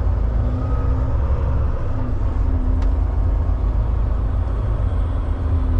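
Semi-truck diesel engine running, a steady low rumble, with one faint tick about three seconds in.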